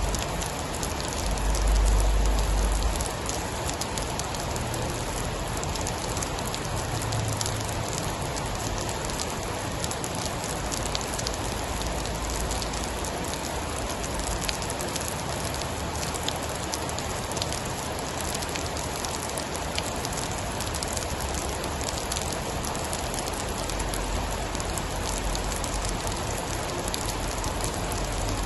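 Steady heavy rain: a dense, even hiss with fine scattered drop ticks, and a brief low rumble about two seconds in.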